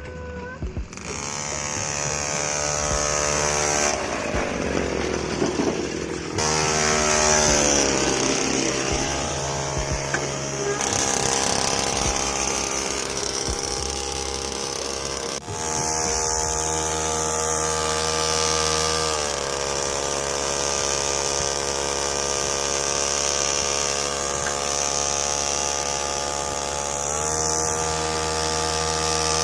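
Small motor of a homemade mini tractor running under load with a buzzy whine. Its pitch dips and climbs again a few seconds in, holds steady for a long stretch, drops about two-thirds of the way through and rises again near the end, as the speed changes.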